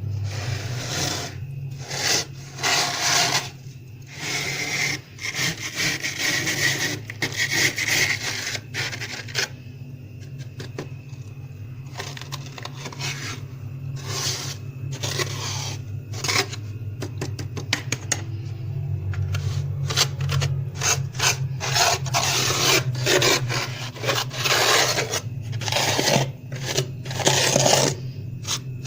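Plastic card scraping soft, fluffy frost off a freezer's walls in repeated uneven rasping strokes, quieter for a few seconds in the middle.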